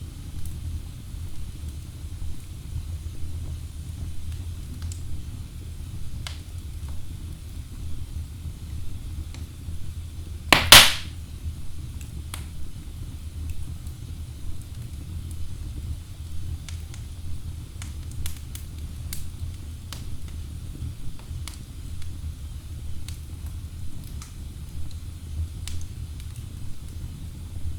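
Wood fire burning in a fireplace: a steady low rumble of flames with scattered faint crackles, and one loud pop from the logs about ten seconds in.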